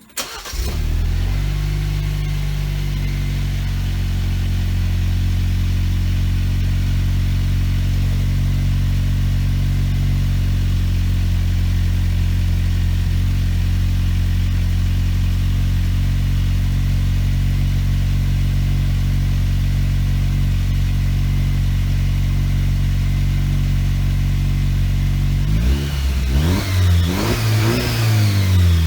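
Jeep Wrangler JL's 2.0-litre turbocharged four-cylinder, heard through a Borla Touring exhaust, cold-starting: it cranks and catches right at the start, then settles into a steady fast idle. About 26 seconds in it is revved several times, the note rising and falling with each blip.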